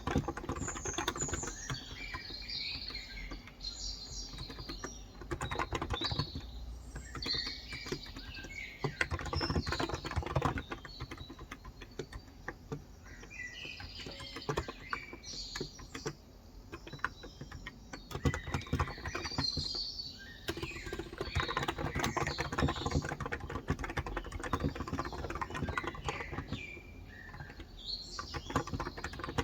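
Continuous typing on a Cox Endeavor electrostatic capacitive 35 g tenkeyless keyboard, a rapid run of soft key strokes, with small birds chirping and twittering in intermittent bursts over it.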